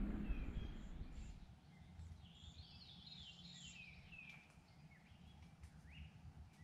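Birds singing faintly: a quick series of short, falling chirps about two seconds in, and one rising note near the end, over a low outdoor rumble.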